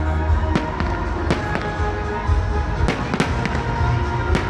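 Salute fireworks bursting: about six sharp bangs at irregular intervals over a steady low rumble.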